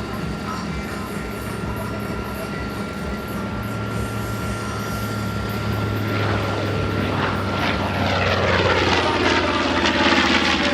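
B-25 Mitchell bomber's two Wright R-2600 radial engines growing louder as it makes a low pass. From about six seconds in the sound swells, and the engine note falls in pitch as the bomber goes by.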